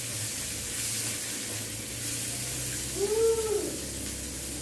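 Chili paste and sliced onion sizzling in a wok as they are stir-fried, a steady hiss throughout. A short high-pitched call rises and falls about three seconds in.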